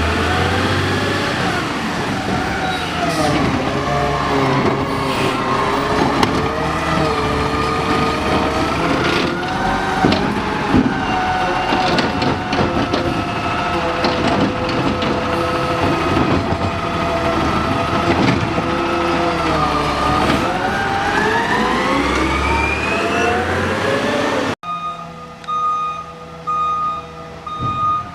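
Garbage truck engine running, its pitch slowly dropping and rising, climbing near the end. It cuts off abruptly, replaced by a truck's repeating reversing beeper.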